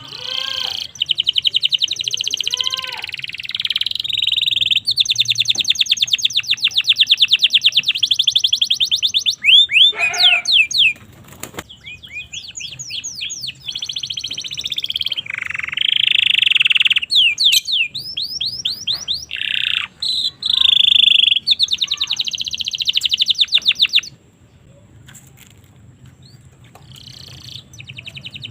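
Domestic canary singing a loud song of fast trills and rolls, switching to a new phrase every few seconds, quieter near the end.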